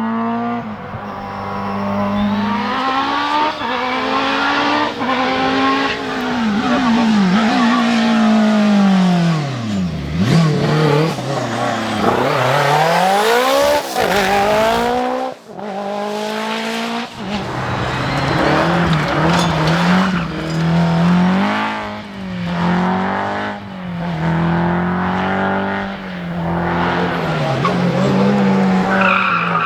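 Rally car engines revving hard, the pitch climbing and dropping with each gear change and lift-off, as the cars run past one after another. Around ten seconds in the engine note sweeps sharply down and back up.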